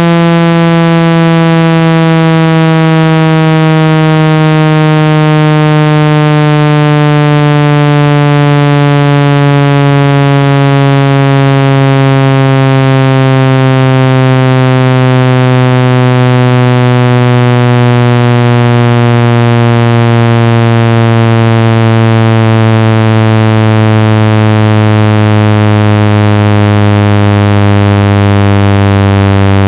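Synthesized buzzing tone with many overtones, its pitch gliding slowly and steadily downward. It is a cleaning tone meant to shake water and dust out of a phone's speaker.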